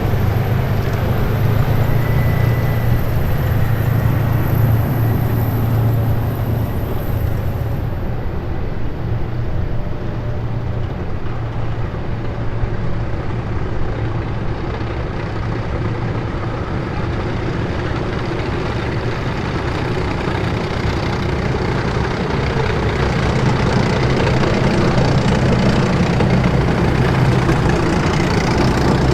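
A column of heavy military vehicles driving past, giving a steady, loud engine drone. The drone eases slightly around the middle and builds again near the end. A faint high whine cuts off abruptly about eight seconds in.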